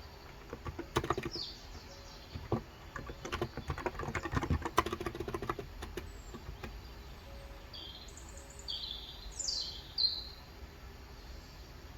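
Typing on a COX Endeavor 35g electro-capacitive tenkeyless keyboard, a quick run of soft key strokes through the first half. A bird then gives several short high chirps, some sweeping downward, in the second half.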